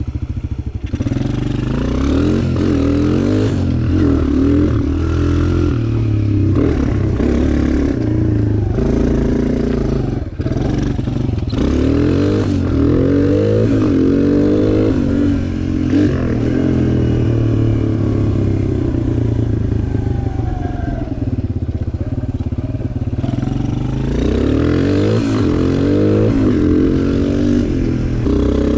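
Suzuki DR-Z125 dirt bike, big-bored to 150, its single-cylinder four-stroke engine running hard under riding, the pitch climbing and dropping again and again as it revs up and backs off.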